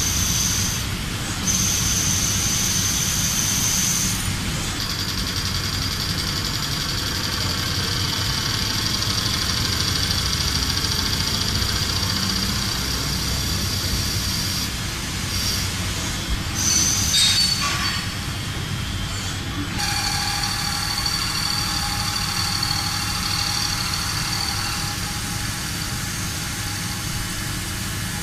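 Heavy metalworking machinery running, a steady mechanical rumble with a high metallic whine, the sound changing abruptly several times.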